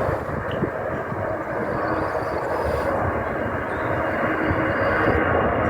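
Aircraft engines at a distance, a steady noise that slowly grows louder as the aircraft works up for a touch-and-go or take-off.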